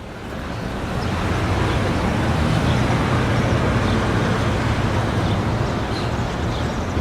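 Busy city street ambience: a steady rumble of passing traffic with a faint background crowd. It swells up over the first second, then holds steady.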